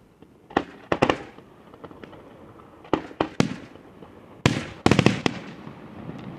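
Aerial fireworks bursting: a string of sharp bangs, some single and some in quick clusters of three or four, each trailing off in a brief echo.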